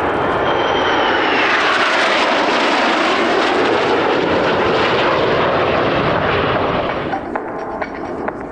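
Fixed-wing aircraft passing low overhead, its loud engine noise carrying a whine that falls in pitch as it goes by, then dying away about seven seconds in.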